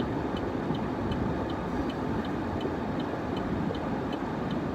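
Steady road noise inside a moving truck's cab, with a turn-signal indicator ticking evenly about twice a second.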